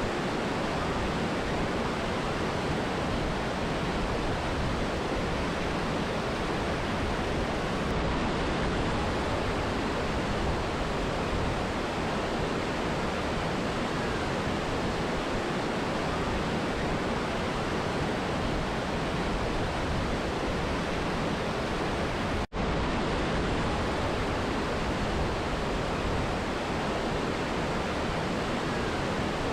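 Mountain river and waterfall rushing in a steady, even roar of water, with a momentary dropout about three-quarters of the way through.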